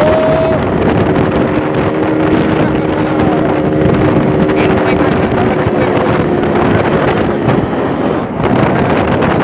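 Yamaha RX King's 135 cc single-cylinder two-stroke engine running at a steady cruising speed on the move, with wind buffeting the microphone. The steady engine note fades out about seven and a half seconds in.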